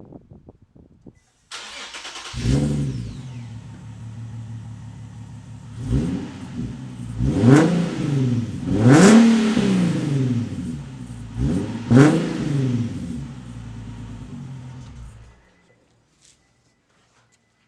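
Nissan 370Z's 3.7-litre V6 running with its rear muffler section removed: cranked and started, idling, revved four times with rising and falling pitch, then shut off.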